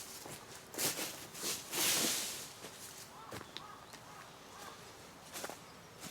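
Rustling and crunching of dry leaves in a few short swells, like steps on a leaf-covered forest floor, with a brief faint high chirp a little past the middle.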